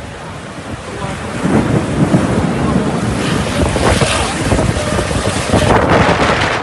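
Storm wind gusting hard and buffeting the microphone, with heavy rain. The noise swells from about a second in and comes in surges.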